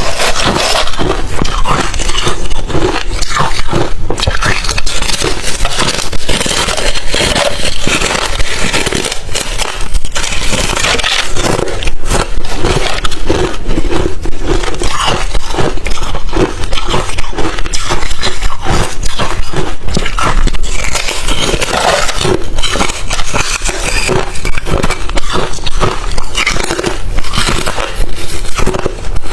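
Crushed ice chips being chewed close to the microphone: a loud, dense, unbroken run of crunches and cracks.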